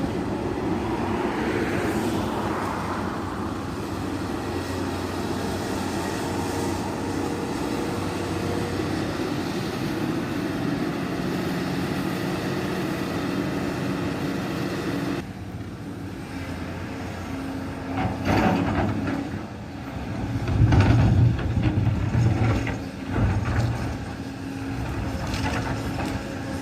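Volvo EC480 hydraulic excavator running steadily under load, its diesel engine and hydraulics working as it digs. It has a sudden change in sound about halfway, then louder surges two-thirds of the way through.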